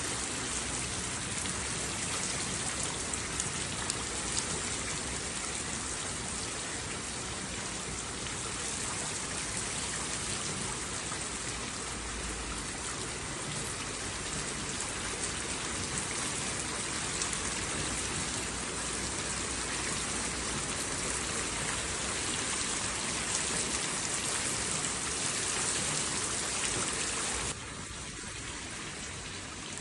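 Steady rain falling, a dense even hiss of drops. About two seconds before the end it drops suddenly to a quieter, duller rain.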